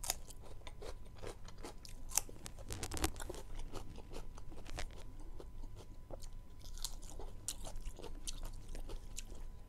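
A person chewing and crunching a mouthful of raw cucumber close to the microphone, with many small wet mouth clicks and smacks throughout.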